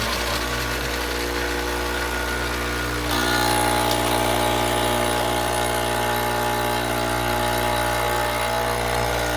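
Pasquini Livietta espresso machine's pump running steadily with a hum and a hiss, pushing water through the group head with no portafilter fitted. About three seconds in it gets a little louder and brighter.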